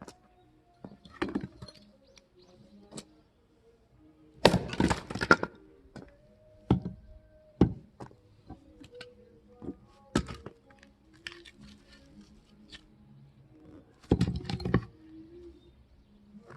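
Firewood being split by hand: a series of sharp strikes of a splitting tool into wood, about half a dozen, irregularly spaced. Two of them, about four seconds in and near the end, are followed by a longer cracking and splintering as a piece breaks apart.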